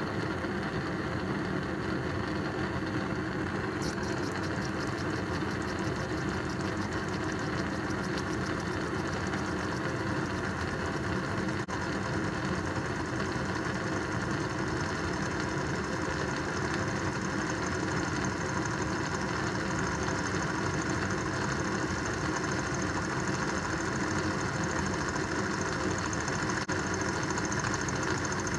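Homemade Stirling engine running fast, a steady, rapid mechanical clatter that keeps an even level throughout.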